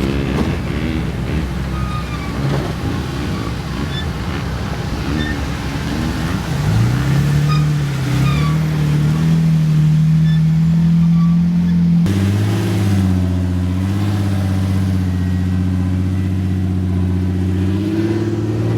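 Off-road vehicle's engine working under load on a trail obstacle. It revs up about a third of the way in and holds a steady drone, drops to a lower pitch about two-thirds in, and rises a little again near the end.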